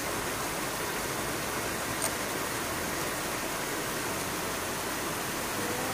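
Stream water rushing steadily over rocks, an even continuous rush, with a single small click about two seconds in.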